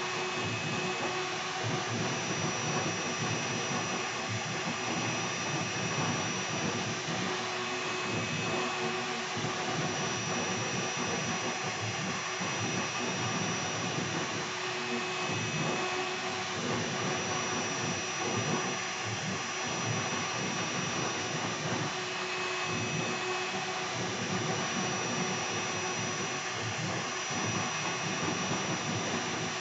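Air-cooled 2.2 kW CNC router spindle running steadily with a high whine of several held tones, while its 60-degree V-bit cuts shallow passes in wood, giving a rough, fluctuating noise underneath.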